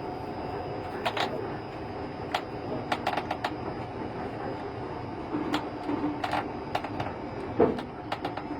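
Railroad turntable turning: a steady mechanical drone with scattered metallic clicks and clanks, and a louder knock near the end.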